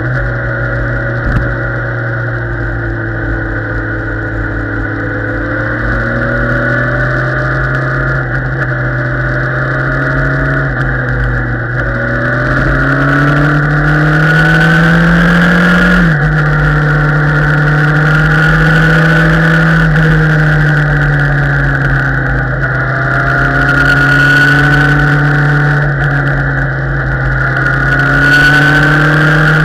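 Motorcycle engine running under way, its pitch climbing as it accelerates about halfway through, then dropping sharply in one step as it shifts up, easing down and climbing again near the end.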